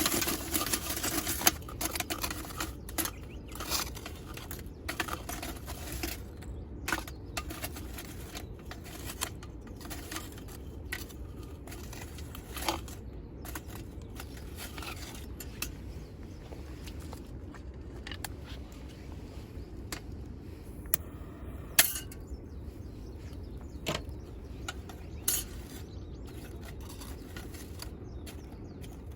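Metal cookware and utensils being handled: irregular clinks and clatters, a quick flurry in the first couple of seconds, then scattered single knocks, the loudest about three quarters of the way through.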